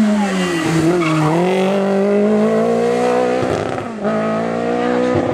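Rally car engine pulling hard under acceleration, its pitch climbing steadily. The pitch breaks briefly at a gear change about three and a half seconds in, then climbs again.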